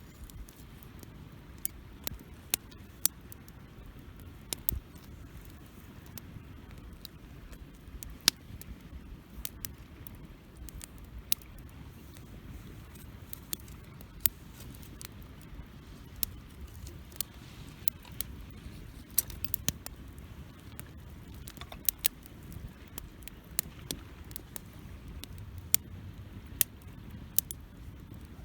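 Wood campfire burning: a low steady rumble of flames with irregular sharp crackles and pops from the burning wood.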